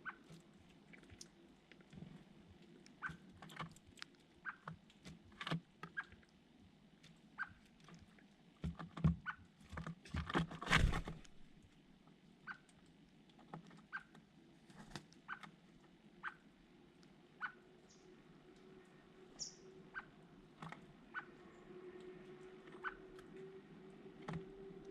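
Small birds pecking and scrabbling: irregular light taps and scratches with a few short soft chirps, and a louder flurry of scuffling about nine to eleven seconds in.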